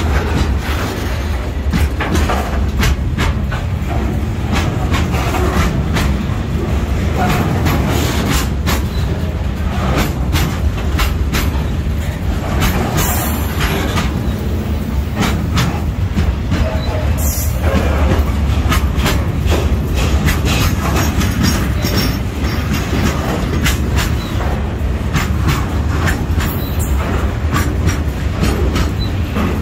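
Freight train of flat wagons loaded with steel coils passing close by: a steady, loud rumble of rolling wheels with frequent sharp clacks as the wheels cross the rail joints.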